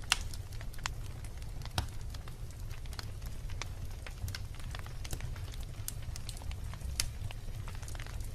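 Wood logs burning in a fireplace: a steady low rumble of the flames with frequent sharp, irregular crackles and pops, the loudest pop just after the start.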